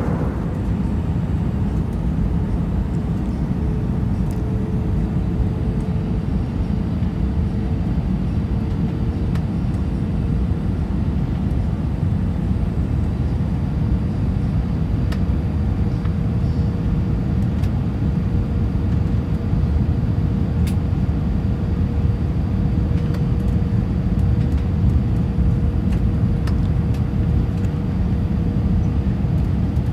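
Steady engine and airflow roar inside the passenger cabin of an Airbus A320 in flight, with a faint steady hum running through it.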